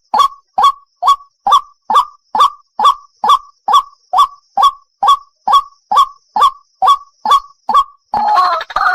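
White-breasted waterhen lure call: a steady run of short, loud, identical calls at about two a second, breaking about 8 s in into a fast, jumbled chatter of overlapping calls.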